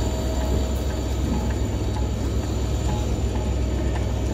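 Passenger train's coaches running past alongside a station platform: a steady rumble of wheels on rail.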